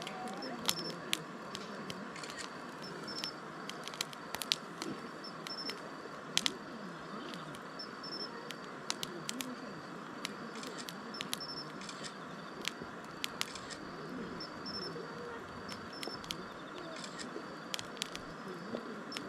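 Wood fire burning, with irregular sharp crackles and pops from the burning wood over a steady low rush.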